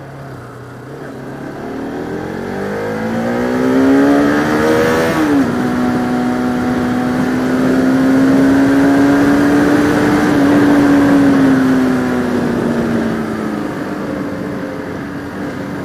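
Bajaj Pulsar RS200 single-cylinder motorcycle engine accelerating: its pitch rises for about five seconds, drops sharply at an upshift, then pulls steadily and eases off near the end, over a rush of wind noise.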